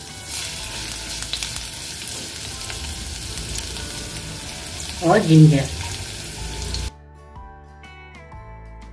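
Chopped garlic and ginger sizzling in hot oil in a kadhai over high heat as they are stirred. About five seconds in, a short rising tone is loudest. Near the end the sizzle cuts off suddenly and background music takes over.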